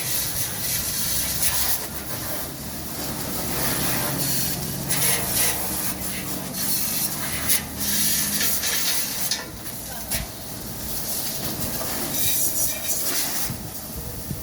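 Water spraying hard at a vehicle wash, a continuous hiss with irregular swells, over a steady motor hum.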